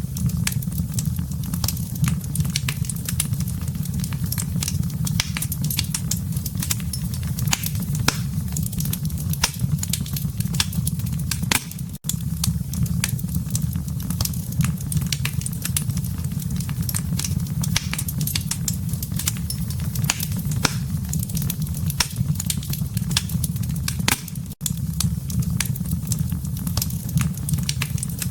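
Burning wood fire crackling and popping in quick, irregular snaps over a steady low rumble. The sound drops out for an instant twice.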